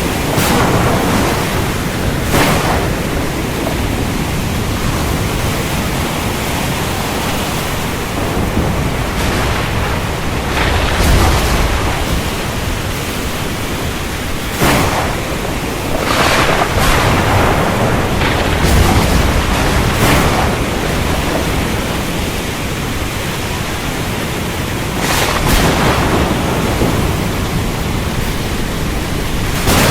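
Thunderstorm: a steady rush of rain and wind, broken by a handful of sharp thunder cracks and low rumbles of thunder.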